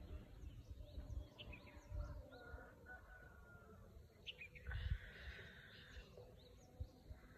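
Faint outdoor ambience: birds chirping in short, scattered calls over a low, uneven rumble.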